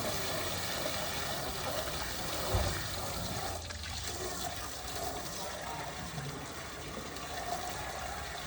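Water running or pouring with a steady splashing rush, and a single low thump about two and a half seconds in.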